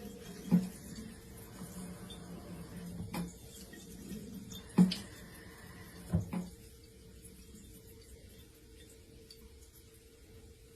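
A few separate soft knocks over a faint, steady low hum, in a quiet room.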